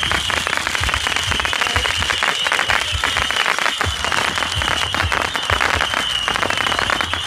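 Fireworks crackling densely and without a break, a fast spatter of tiny pops, with scattered deep thuds from bursting shells underneath.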